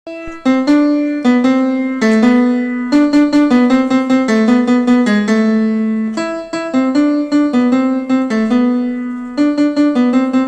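Instrumental intro of a children's song played on a piano or electric-piano keyboard: a simple melody of struck notes, each fading after it is hit, with accompanying lower notes.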